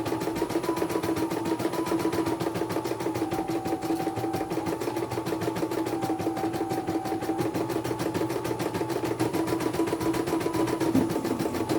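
Computerized embroidery machine stitching: a fast, even run of needle strokes over a steady motor hum, with a whine that steps up and down in pitch every few seconds.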